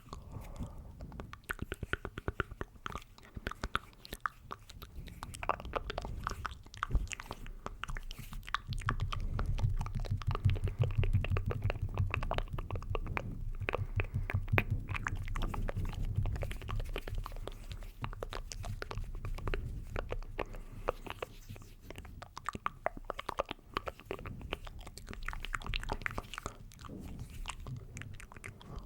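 ASMR mouth sounds made close to a microphone: rapid wet clicks and smacks that run on without pause, with a low rumble added from about nine to seventeen seconds in.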